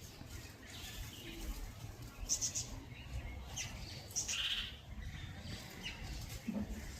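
Small birds chirping: short, high calls scattered through a few seconds, one louder call about four seconds in.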